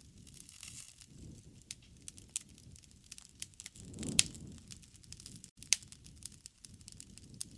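Wood campfire crackling, with irregular sharp pops over a low rush of flame that swells and fades. The flame swells loudest about four seconds in.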